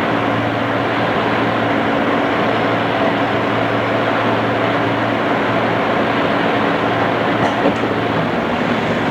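Interior running noise of a JR East 211 series electric train at steady speed: a constant rumble with a steady low hum, dulled at the top by cassette-tape recording. Two faint ticks sound about seven and a half seconds in.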